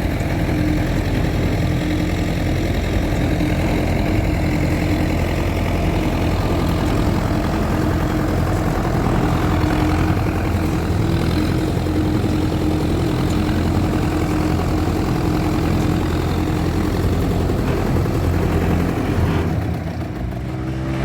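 Fordson Major tractor engine running steadily. The sound drops and changes near the end.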